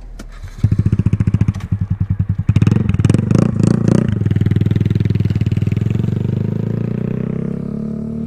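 Motorcycle engine starting up about half a second in, revved a few times, then idling steadily.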